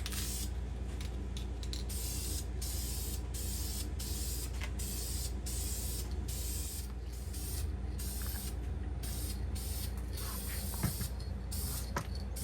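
Spray paint hissing onto an engine block in short repeated passes, each stopping briefly before the next, over a steady low hum.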